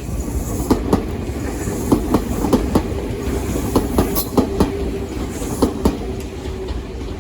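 Tokyu Ikegami Line electric train passing close by, its wheels clacking over the rail joints in a run of paired clacks over a steady running rumble.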